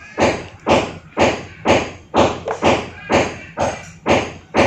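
Regular, loud knocks, about two a second, each with a short ringing tail.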